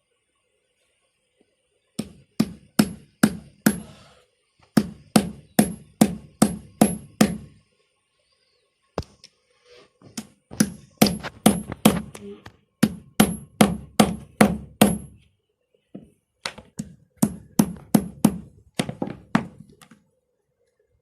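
A new 629 ball bearing being tapped into place on a vacuum cleaner motor with a hammer: sharp knocks at about three a second, in four runs with short pauses between them, each knock with a faint metallic ring.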